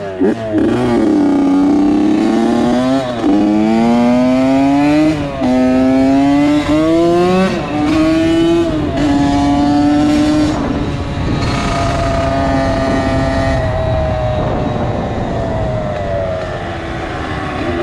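Honda CR80's 80cc two-stroke single-cylinder engine accelerating through the gears: the pitch climbs and drops sharply at each of about five shifts, then holds steady and eases off near the end.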